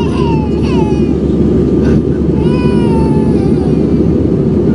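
Airbus A320 cabin noise in the climb: the steady low rush of the engines and airflow. Over it, a high-pitched falling wail sounds twice, once near the start and once longer about two and a half seconds in.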